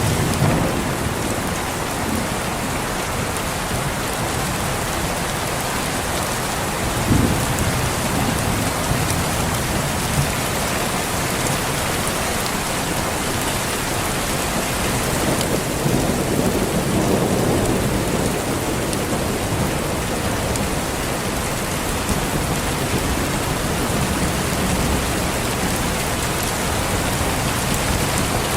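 Steady rain falling, with thunder rumbling: a short roll about seven seconds in and a longer, deeper roll from about sixteen to eighteen seconds.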